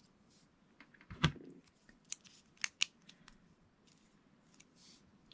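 Plastic Lego pieces being handled and pressed together: a knock about a second in, then a few sharp clicks.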